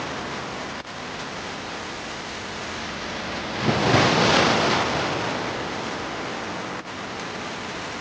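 Steady rushing sea ambience, with a louder surge of water about four seconds in that fades away again.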